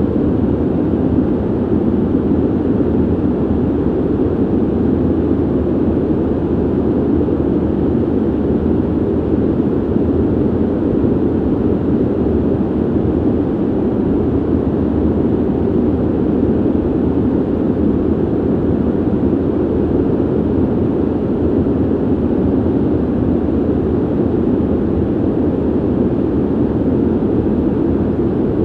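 Ventilation noise: a steady, deep rush of air, with most of its weight low down and little hiss, unchanging throughout.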